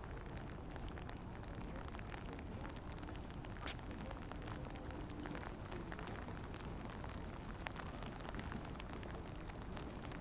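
Light rain pattering: a steady hiss of many small ticks.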